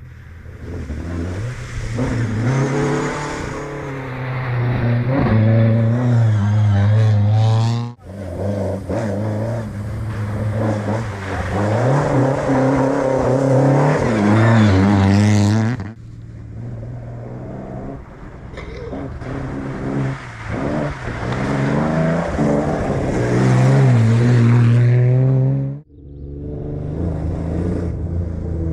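Classic rally car engines revving hard and rising in pitch through the gears as the cars drive a competitive stage, in several loud passes cut together with abrupt breaks about 8, 16 and 26 seconds in.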